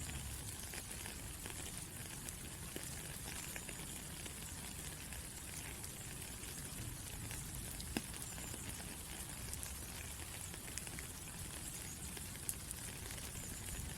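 Steady rain falling, a constant hiss with scattered drop taps and one sharper tap about eight seconds in.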